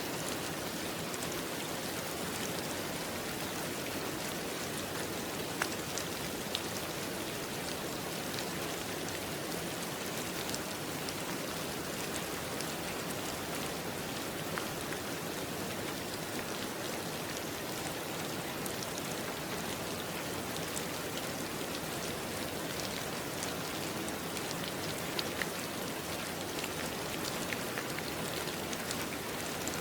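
Steady rain falling on a surface: a continuous even hiss dotted with the ticks of single drops striking nearby.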